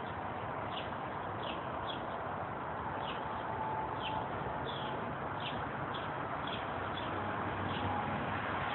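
Small birds chirping: short, high, downward-sliding chirps repeated every second or so, over a steady background hiss.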